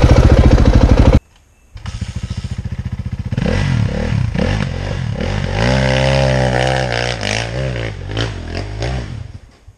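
Dirt bike engine running loud and high, cut off suddenly about a second in; after a short gap, a dirt bike engine running again, its pitch rising and falling as it is revved, with a few knocks, dying away near the end.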